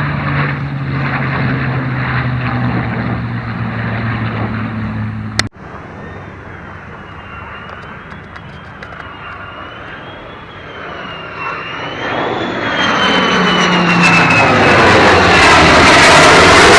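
Aircraft engine noise with a steady low drone that cuts off abruptly about five seconds in. Then a jet aircraft approaches: a wavering whine, then a rushing jet noise that swells until it is very loud near the end, sweeping in pitch as it nears.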